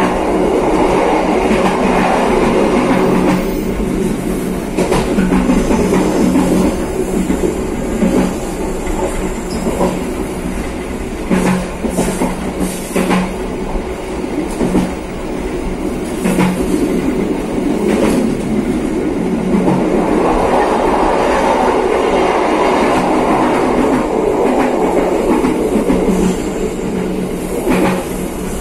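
KA Probowangi passenger train running along the track, heard from inside the last carriage: a steady rumble of wheels on rail with a low hum underneath. Now and then the wheels give sharp clicks, several of them in the middle and one near the end.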